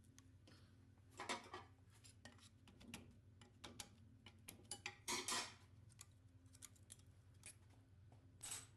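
Metal engine parts and tools being handled: scattered light clicks and clinks, with short louder metallic clatters about a second in, around five seconds in, and near the end.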